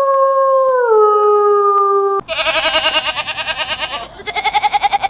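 A long held howl, typical of a dog, that drops to a lower pitch about a second in and stops abruptly; then an animal's rapid quavering high-pitched cries, a longer one and a shorter one near the end.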